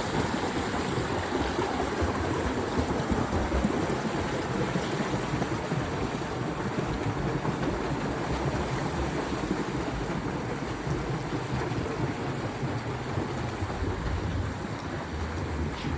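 Steady splashing and churning of water from swimmers in a pool, a continuous noisy wash with no distinct strokes.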